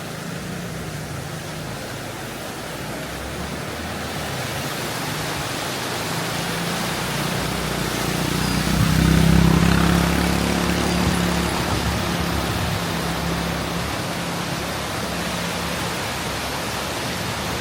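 Steady rushing of a river that grows louder, with a motor vehicle passing about eight to twelve seconds in, loudest around nine seconds.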